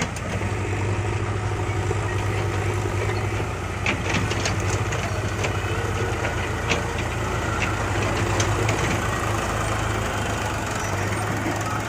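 Heavy diesel engine of a tractor or backhoe loader running steadily with a low hum. A few short clanks or clicks come in around the middle.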